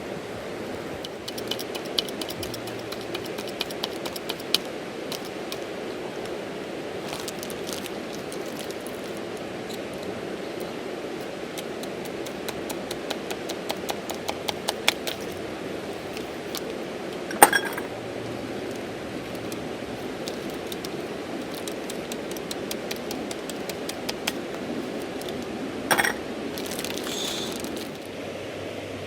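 Steady rush of a river flowing over the stones, with a small fire crackling in scattered sharp ticks on top. Two louder sharp cracks stand out, one about halfway through and one near the end.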